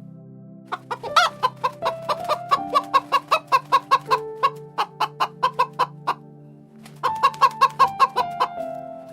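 Chickens clucking in quick, even runs of about four clucks a second, pausing about six seconds in and starting again a second later, over soft background music.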